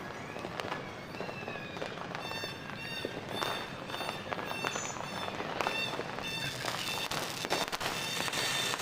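New Year fireworks and firecrackers going off, many sharp pops and bangs at irregular intervals, with steady high tones sounding from about two seconds in.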